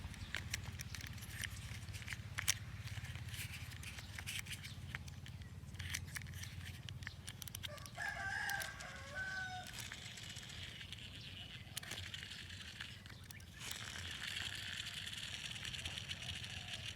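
A rooster crowing once, about eight seconds in, over a steady low hum and scattered light clicks.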